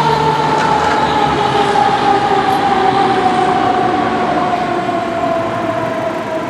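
Fire truck siren sounding one sustained tone, its pitch falling slowly as it winds down. A heavy engine rumble underneath fades out about a second and a half in.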